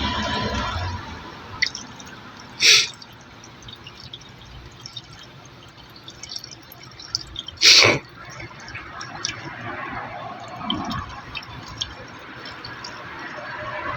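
Water being poured into a car's radiator, with dripping and small splashes, and two short, loud gushes about three and eight seconds in.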